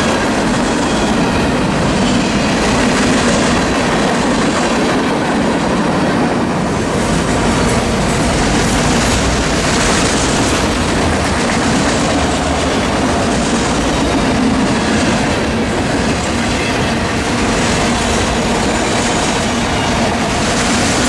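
Freight train cars rolling past, a loud, steady noise of steel wheels running on the rails.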